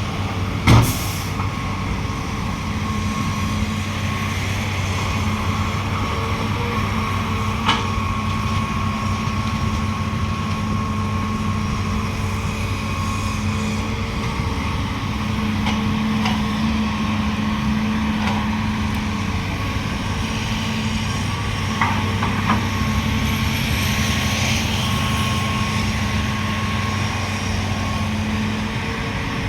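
Heavy diesel engine running steadily at a constant pitch, with a sharp knock about a second in and a few lighter clicks later.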